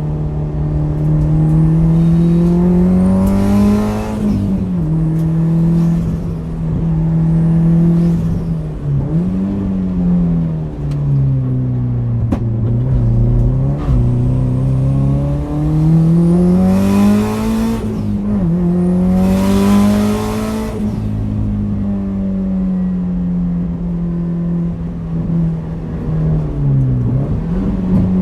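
A 2002 Subaru WRX's turbocharged 2.0-litre flat-four, with a big turbo and a straight-pipe exhaust, revving up and dropping back through the gears under hard driving. Loud bursts of hiss come in at the top of the revs three times, about four seconds in and twice more past the middle.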